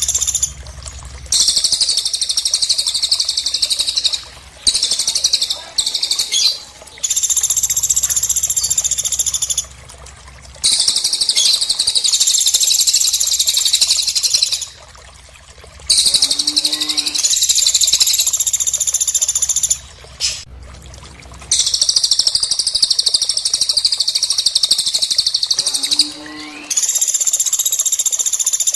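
Bird song recording: a small songbird's high, dense, chattering song in long phrases of several seconds, broken by short pauses. Twice a short lower call falls in pitch.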